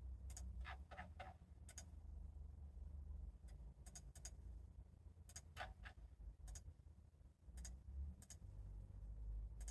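Faint, irregular light clicks, some single and some in quick clusters of two to four, over a low steady hum.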